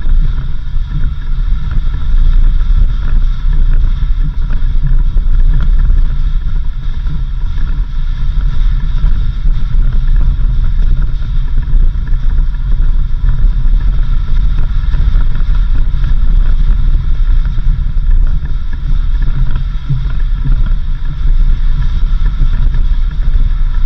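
A 4x4 vehicle driving steadily, with a constant low engine and road rumble and some wind noise on the microphone.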